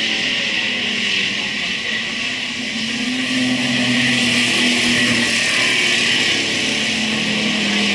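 Speedway race cars' engines running as they circle the track, with one engine swelling and rising in pitch about three seconds in.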